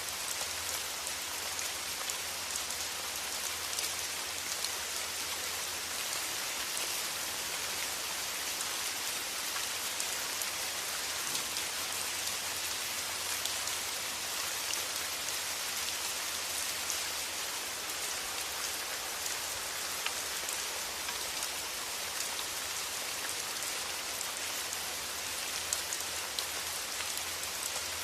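Steady rain, a dense hiss of fine drops pattering without letup, with a faint low rumble underneath.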